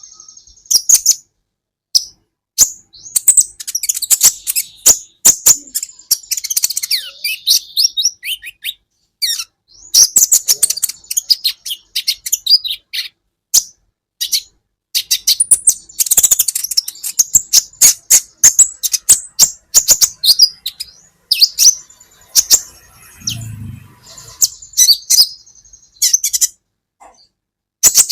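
Kolibri ninja sunbird singing: rapid, sharp high-pitched chirps and twittering runs in bursts with short pauses between them.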